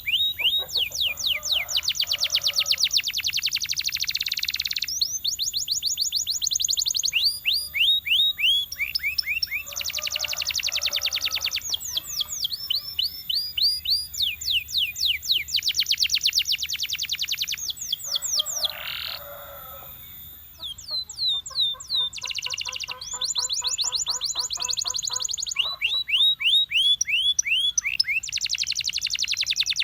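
Canary singing: fast trills of rapidly repeated high, down-slurred notes, in phrases a few seconds long separated by short pauses, with a lower, buzzy rolling trill in the second half.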